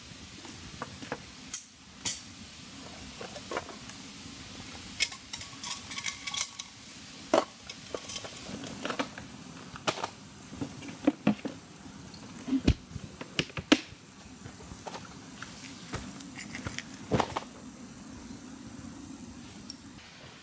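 Metal camp cookware and utensils being handled: scattered light clinks, taps and knocks, a few with a short metallic ring, over a steady low background.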